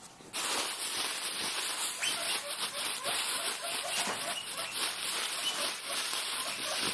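Guinea pig making short, repeated squeaks over a steady hiss, the excited calling of a guinea pig expecting grass.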